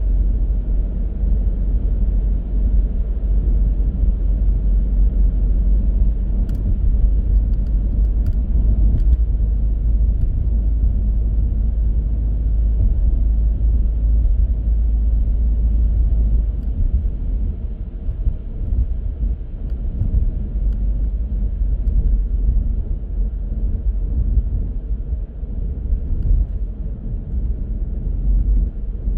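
A car driving, heard as a steady low road and engine rumble with tyre noise. The deepest part of the rumble eases a little past halfway through.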